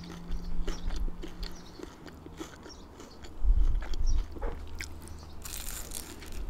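Close-miked chewing and small wet mouth clicks, then a crackly crunch near the end as a fried pita chip is bitten into.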